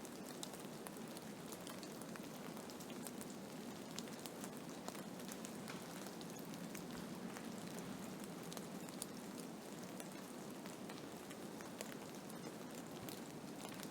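Blizzard: a steady rush of wind-driven snow, with many light ticks scattered through it as grains strike a surface.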